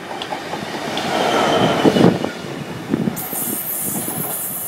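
Class 66 diesel freight locomotive and its train passing, a rumbling noise that builds to its loudest about two seconds in. About three seconds in, a high-pitched hiss of wheel squeal from the wagons comes in and holds.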